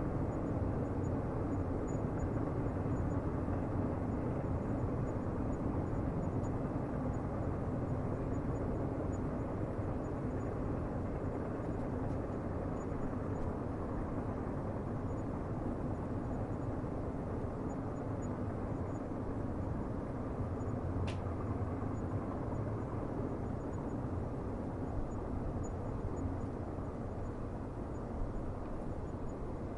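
Steady low rumble of a distant train on the rails, with one sharp click about twenty seconds in.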